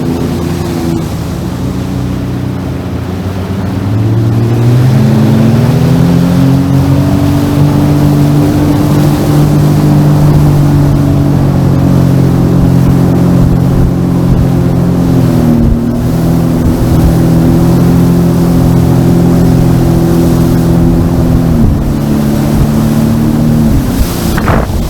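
Sea-Doo Fish Pro jet ski's engine running under way. It throttles up about four seconds in to a steady cruising pitch, eases briefly midway, and backs off in two steps near the end.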